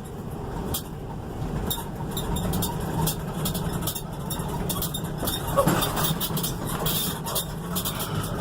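Car driving along, a steady low rumble of engine and road noise with frequent short clicks and rattles over it.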